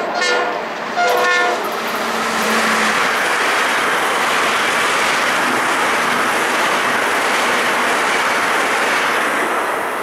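Metro-North commuter train sounding two short horn blasts in the first second and a half as it approaches. It then passes through the station with a steady rush of wheels on rails that fades near the end.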